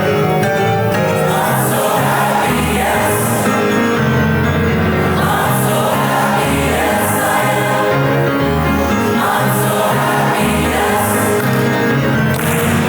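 Choir singing a holiday piece.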